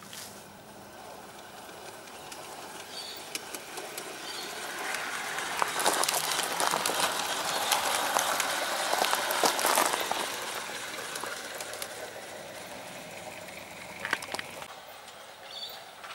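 Large-scale garden railway train running past on the track. It grows louder over a few seconds with quick clicking from the wheels and track, peaks in the middle, then fades away.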